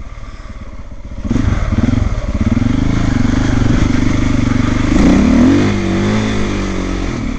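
Single-cylinder trail motorcycle engine ticking over quietly, then opened up about a second in and pulling along with the revs rising and falling, loudest around five seconds in.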